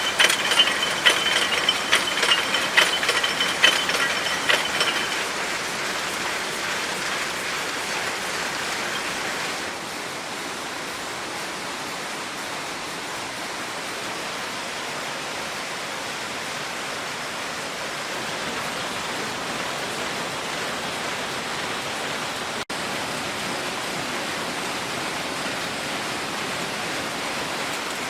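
Textile factory machinery running: a dense, steady mechanical din. In the first few seconds it carries rapid clicking and a thin high whine.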